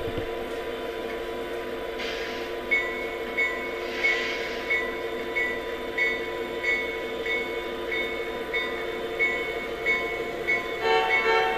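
Sound effects from a Lionel Lionmaster New York Central SD90 model diesel locomotive: a steady diesel rumble, with two hisses of air early on and a bell ringing about every two-thirds of a second from about three seconds in. The horn comes in near the end.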